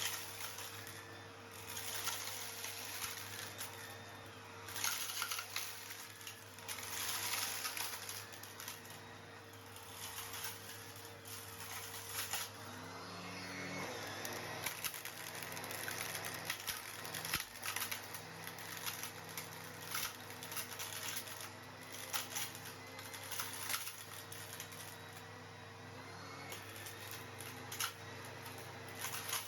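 Numatic Henry cylinder vacuum cleaner running steadily with a constant motor hum, while stones are sucked up and clink and rattle through the hose in irregular clusters of clicks.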